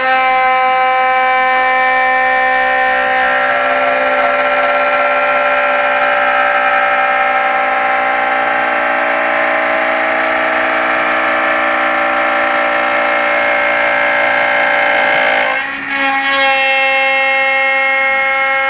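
CNC router spindle running while machining beech wood: a steady whine of several held tones, dipping briefly about three-quarters of the way through and then resuming at slightly changed pitches.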